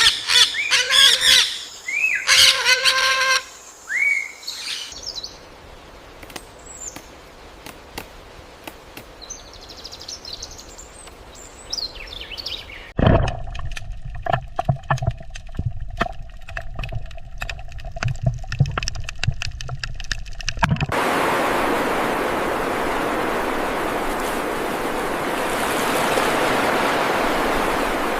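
Animal sound clips in sequence: pitched bird calls for the first few seconds and scattered chirps after them, then from about 13 s a rapid clicking, pulsing call, then from about 21 s a long steady hiss.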